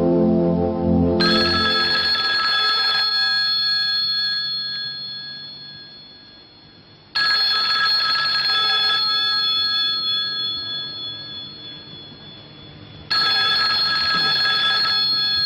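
Bell telephone ringing three times, about six seconds apart; each ring trills for about two seconds and then dies away.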